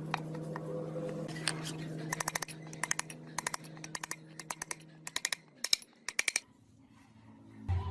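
A steady machine hum that stops about six seconds in, with quick clusters of sharp clicks or light taps from about two seconds in. A new low hum starts right at the end.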